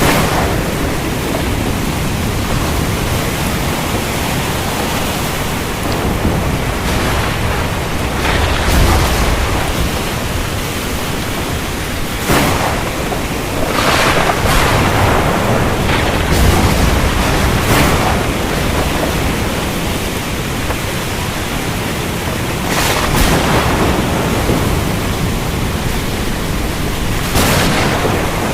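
Heavy rain falling steadily, with low rumbles of thunder, most plainly about a third of the way in and again a little past halfway.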